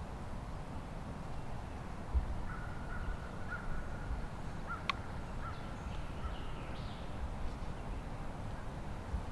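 Faint bird calls over a low wind rumble, with a single sharp click about five seconds in.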